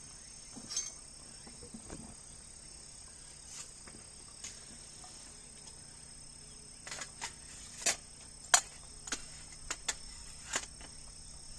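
Steady high-pitched insect chorus. In the second half come about nine sharp clicks and knocks, irregularly spaced, one louder than the rest.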